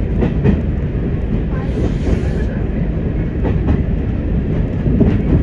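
Class 104 diesel multiple unit heard from its driving cab while running along the line: a steady low rumble from the engines and running gear, with a few short sharp clicks from the wheels passing over the track.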